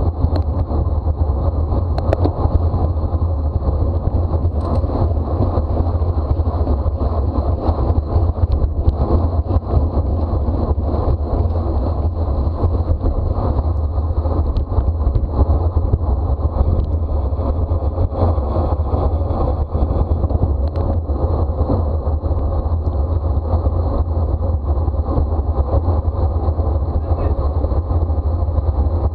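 Steady wind rush and rumble on the microphone of a camera riding on a racing bicycle at speed, heaviest in the low end.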